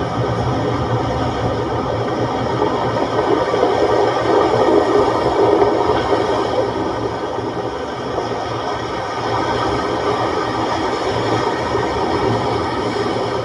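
Steady roar of breaking sea waves and wind, swelling slightly a few seconds in.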